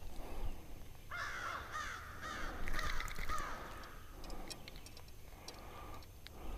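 A bird calling in a quick run of repeated calls that starts about a second in and lasts about two seconds.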